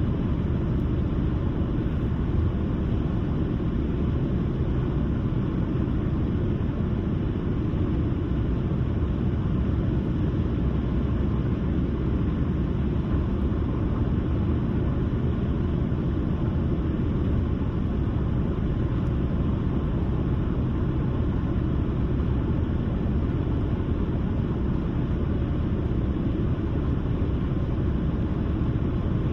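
Steady low rumble of a car driving along at an even speed: tyre and road noise with engine hum, unchanging throughout.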